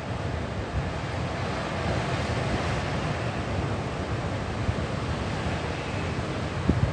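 Strong wind buffeting the microphone over the steady rush of rough sea, with a couple of low thumps from gusts near the end.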